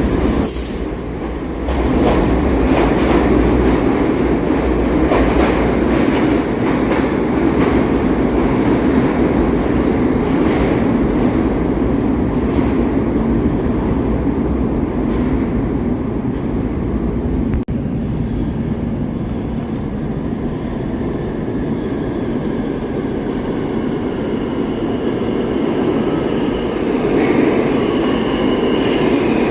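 New York City subway train running along the track with a steady rumble. Wheels click over rail joints through the first half, and a faint wheel squeal comes in near the end.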